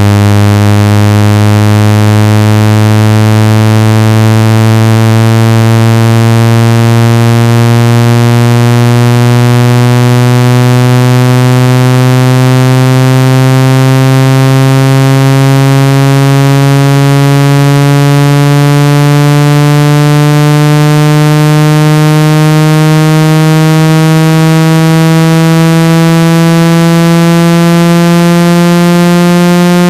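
Synthesized water-ejection tone for a phone speaker: a loud, buzzy low tone gliding slowly and steadily upward in pitch. It is played at full volume so the vibration shakes trapped water out of a wet phone speaker or earpiece.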